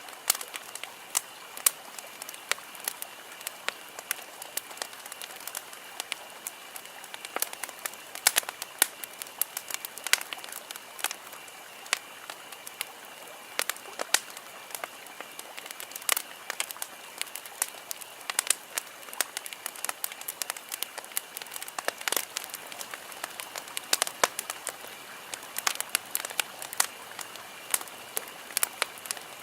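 Wood campfire crackling: irregular sharp snaps and pops, several a second, over a soft steady hiss, with a faint steady high tone behind it.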